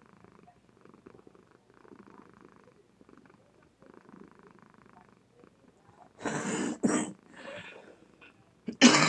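Somali cat purring softly, the purr swelling and fading in a slow, even rhythm with her breaths. Several loud, harsh bursts of noise break in about two-thirds of the way through and again at the end, drowning the purr.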